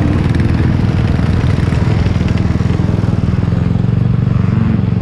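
A 1999 Yamaha YZ125's 125cc single-cylinder two-stroke engine running at fairly steady low revs.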